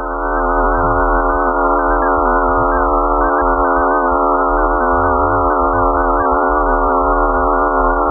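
Synthesized space-sound drone of the kind sold as a planet's sound: many steady, slightly wavering tones stacked together over a low rumble, starting abruptly.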